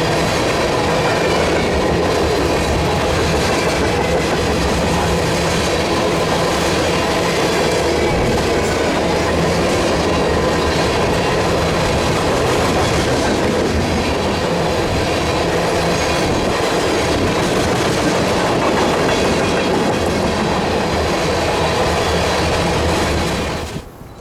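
Freight train cars rolling past at speed, steel wheels clattering over the rail joints in a steady rumble. The sound cuts off suddenly near the end.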